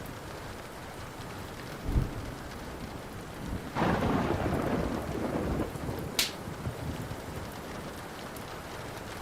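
Steady rain with a rumble of thunder starting about four seconds in and dying away about two seconds later, after a brief low thud about two seconds in. A single sharp crack, like a fire popping, comes just after the thunder.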